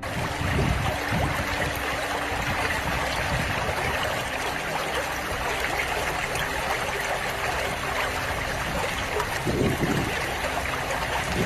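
Steady rushing noise of running water, with a couple of low rumbles about nine and a half seconds in.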